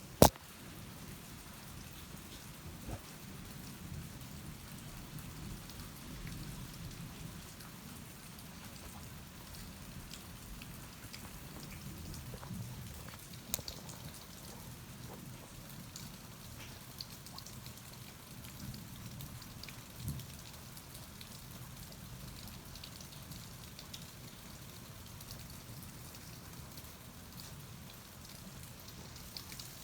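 Steady rain falling, with scattered louder drops ticking. A single sharp knock right at the start, the recording phone being handled as it is set in place.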